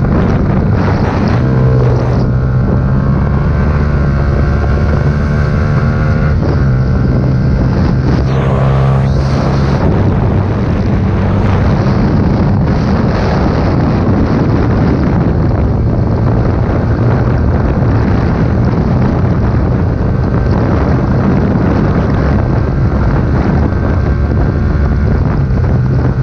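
Motorcycle with an aftermarket full exhaust system running steadily while being ridden, a loud exhaust note, with wind buffeting the microphone.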